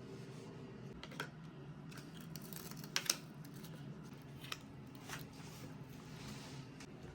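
Scattered sharp clicks and snips of small handwork, the loudest pair about three seconds in, over a steady low hum.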